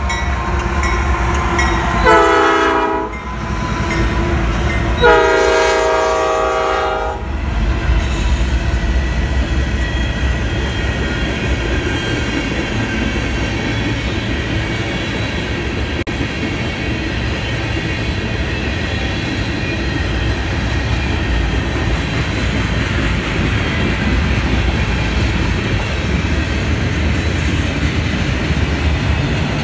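Norfolk Southern diesel freight locomotive sounding its multi-note air horn twice as it passes, a short blast about two seconds in and a longer one a few seconds later. Then the steady rumble of freight cars rolling by on the rails.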